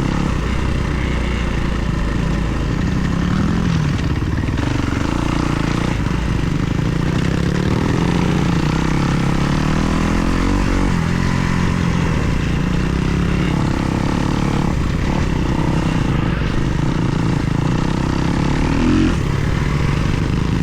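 Kawasaki KX250 motocross bike's four-stroke single-cylinder engine running hard as it is ridden, its pitch rising and falling again and again with the throttle and gear changes.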